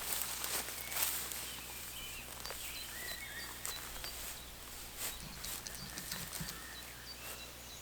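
Woodland birds calling, with short chirps and a short high note repeated about every half second. A few rustling footsteps on the woodland floor near the start.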